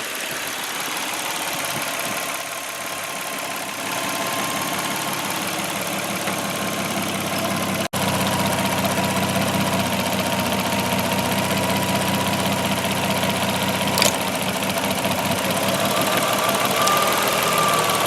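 2003 Lexus ES300's 3.0-litre V6 engine idling steadily, test-run with newly fitted ignition coils. The sound breaks off for an instant about eight seconds in.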